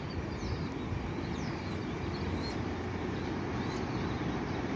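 A steady low rumble, with faint, short falling bird chirps heard about four times.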